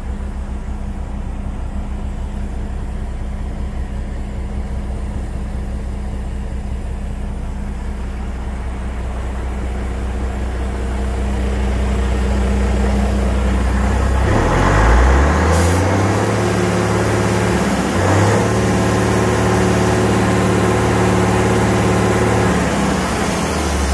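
A DAF 95.380 ATI truck's six-cylinder turbodiesel idles steadily. A little past halfway it is revved up and held at raised revs, drops briefly once and picks up again, then comes back down right at the end.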